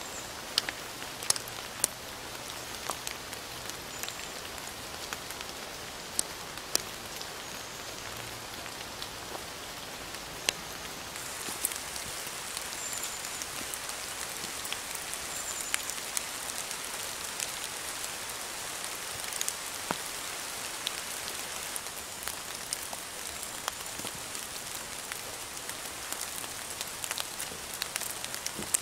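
Steady rain falling through trees, with sharp individual drops tapping close by. The hiss gets a little brighter about ten seconds in.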